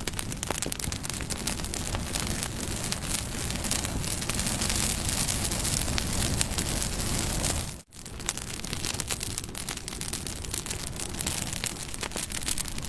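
Wood campfire burning, with a steady rush of flame and dense crackling and popping of the burning wood. The sound cuts out for an instant about eight seconds in, then resumes.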